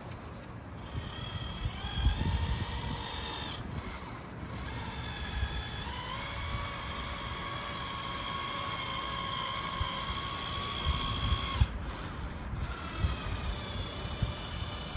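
Small power tool's electric motor whining steadily, stopping briefly twice.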